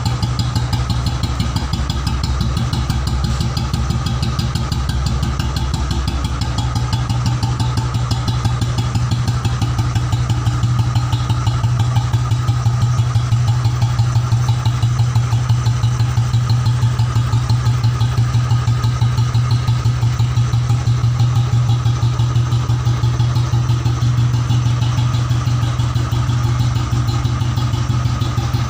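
1995 Royal Enfield single-cylinder four-stroke engine idling steadily through its dual exhaust, an even run of rapid pulses.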